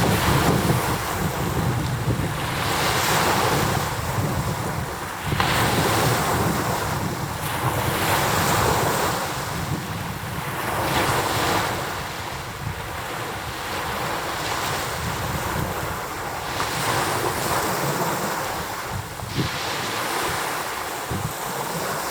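Rough-sea waves pounding against the shore, swelling and breaking in surges every two to three seconds, with strong wind rumbling on the microphone.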